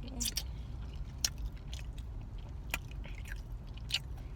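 Close-up chewing of a crunchy fried chicken sandwich: wet mouth sounds with a handful of sharp crunches and smacks at irregular moments, over a steady low hum.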